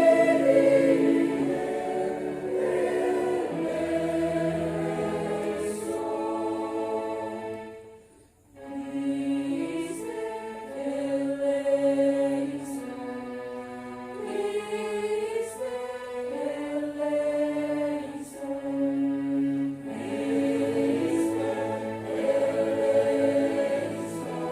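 Church choir singing in several voices, holding long notes, with a short break between phrases about eight seconds in.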